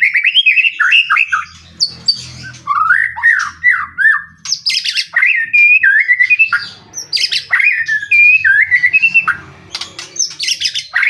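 White-rumped shama (murai batu) singing loudly: fast, varied whistled phrases mixed with sharp, harsh notes, with brief pauses between phrases.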